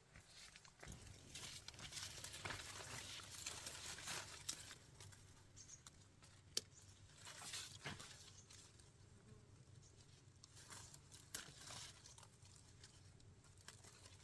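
Faint, irregular rustling and crackling of dry rice stalks being handled during the harvest, with one sharp click about six and a half seconds in.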